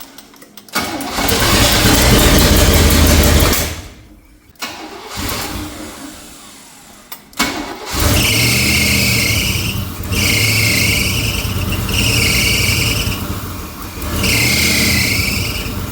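A 1984 Chevrolet K20's engine with no exhaust fitted runs super loud for a few seconds, then dies away after a couple of brief catches. It fires again about eight seconds in and keeps running, with a high squeal that comes and goes about every two seconds. The distributor timing is being reset after the engine ran with too much ignition advance.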